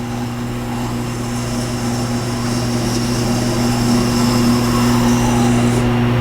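Tormek T-8 sharpening machine running with a steady motor hum while a steel blade is ground against its turning stone wheel, giving a continuous scraping hiss that grows a little louder about halfway through.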